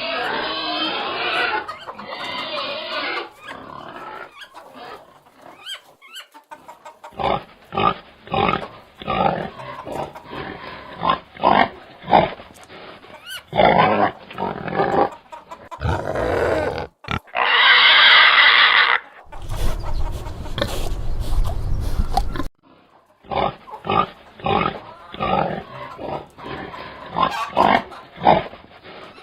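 Pigs grunting in many short, separate grunts, with one loud high squeal about two-thirds of the way through, followed by a few seconds of low rumble before the grunting resumes.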